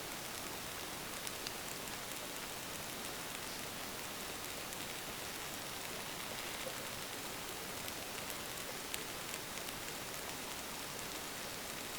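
Wood fire burning: a steady hiss with scattered small crackles and pops.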